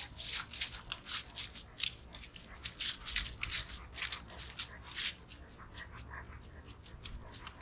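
Wind rumbling on the microphone, with irregular crackling and crunching clicks several times a second.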